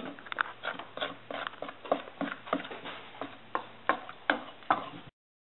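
A kitchen utensil knocking lightly and repeatedly against a mixing bowl as flour is worked into chocolate cake batter, about three knocks a second and unevenly spaced. The sound cuts off suddenly about five seconds in.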